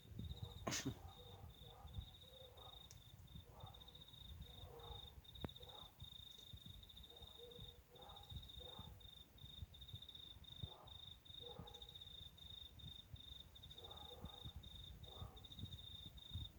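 Faint, steady, high-pitched cricket trill: a fast stream of pulses with brief breaks, over a low background rumble.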